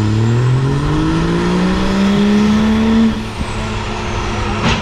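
A vehicle engine accelerating, its pitch climbing steadily for about three seconds, then easing off to a steadier, quieter run. A sharp click near the end.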